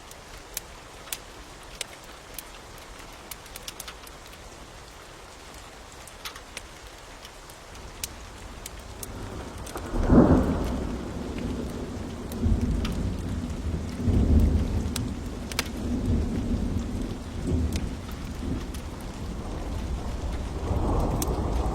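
Steady rain with the sharp pops of a crackling wood fire. About halfway through, a deep rolling rumble comes in suddenly and swells and ebbs several times, growing louder toward the end.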